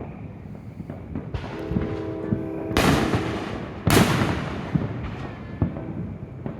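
Fireworks going off: two loud booms about a second apart near the middle, each fading out slowly, among scattered smaller pops and crackles. A steady humming tone sounds for a second or two just before and into the first boom.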